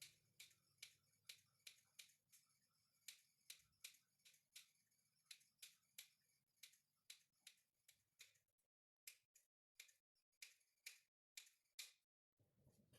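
Faint, evenly spaced sharp clicks, about two to three a second, broken by brief patches of dead silence near the end.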